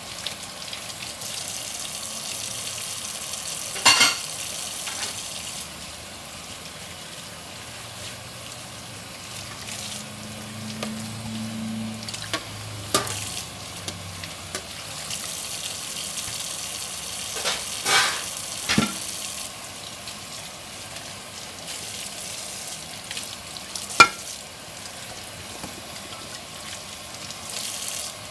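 Dishes being washed by hand at a sink: a soft hissing that swells twice for a few seconds, with five sharp clinks of dishware.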